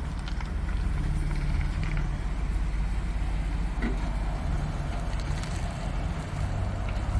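2019 Ford Transit 250 van's engine running steadily.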